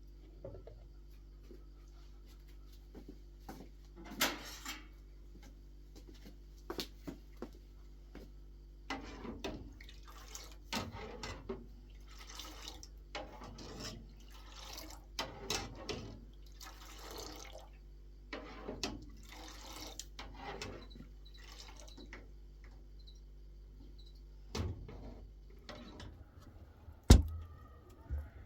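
Water splashing and dripping in short, irregular bursts, with a sharp knock near the end.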